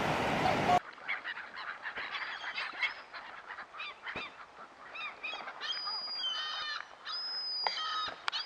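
Birds calling: after a sudden cut from a steady rushing noise about a second in, a quick run of short, high calls follows, with a few held whistled notes near the end.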